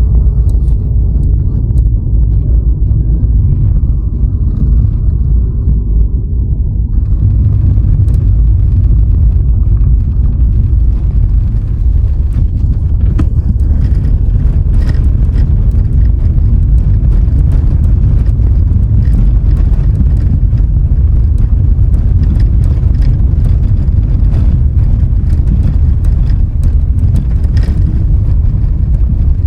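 A car driving along a road: a loud, steady low rumble of road and wind noise, with faint scattered ticks and rattles.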